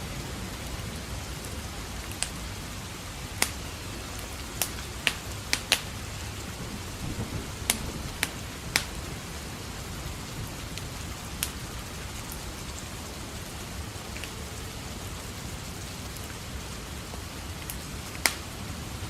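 Steady rain with a wood fire crackling: sharp pops at irregular intervals, several in quick succession around the middle.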